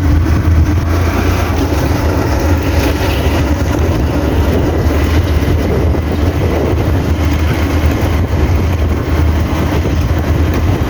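Motorcycle riding at a steady speed: a low, even engine hum under a steady rush of wind and road noise.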